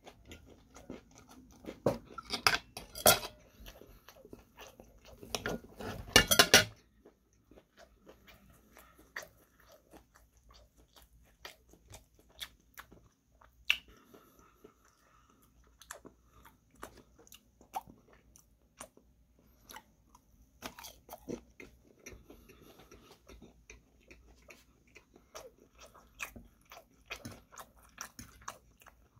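A person chewing crispy breaded, fried chicken katsu: loud crunching twice in the first seven seconds, then quieter, scattered chewing.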